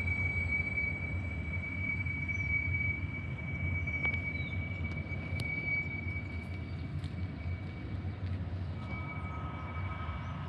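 TasRail freight train rolling slowly past with a steady low rumble. A thin, high, steady whine drops out about two-thirds of the way through and comes back near the end, and there are a few faint sharp clicks.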